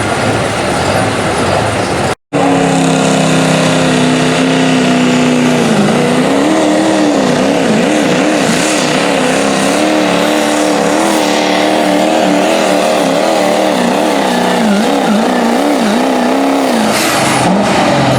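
Diesel pickup truck engine at full throttle on a pulling run. Its pitch holds steady at first, then surges rapidly up and down as the revs bounce, and drops away near the end. There is a brief cut in the sound about two seconds in.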